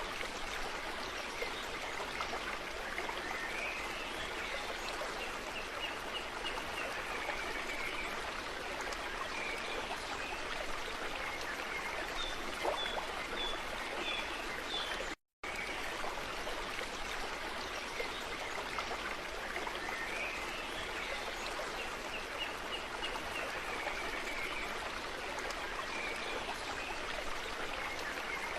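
Steady running water of a stream, with faint bird chirps above it. The sound cuts out for a moment about halfway, then the same recording starts over.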